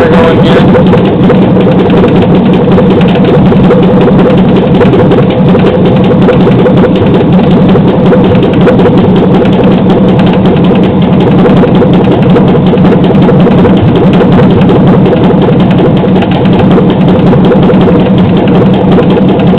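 5.3-litre LH6 V8 engine with Active Fuel Management (displacement on demand) idling on an engine stand with a steady rapid ticking knock. The owner takes it for a lifter tick, likely a collapsed AFM lifter, and hopes it is not rod knock.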